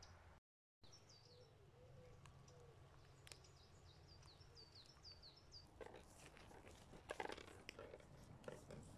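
Faint outdoor ambience with a small songbird giving a run of short, high, falling chirps. From about six seconds in, irregular rustling and crunching takes over: footsteps through dry grass and brush.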